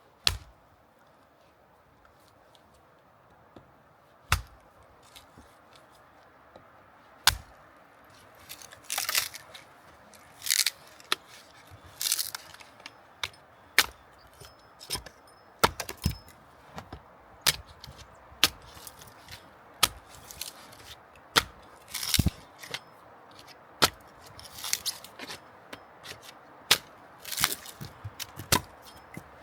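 A series of sharp cracks and knocks, sparse at first and then coming every second or so, some with a short scraping rustle.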